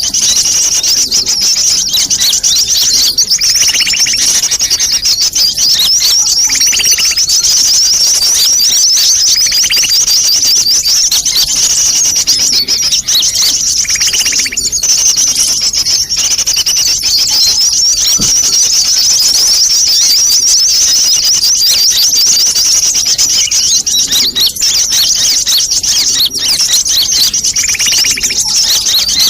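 Bird-lure recording of sunbirds calling in a noisy chorus: a dense, unbroken stream of high, rapid twittering chirps. A lower, fuller call stands out every few seconds.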